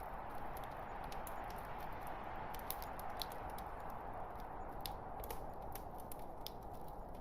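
Log fire burning in a fireplace: a steady rushing hiss of flames with frequent, irregular sharp crackles from the burning wood.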